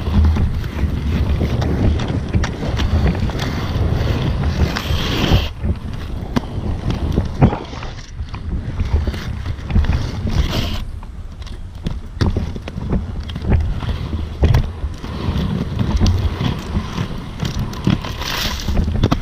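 Inline skate wheels rolling over pavement with wind buffeting the microphone, peppered with frequent small clicks and knocks. The rushing is louder for the first five seconds and again near the end, easing off in between.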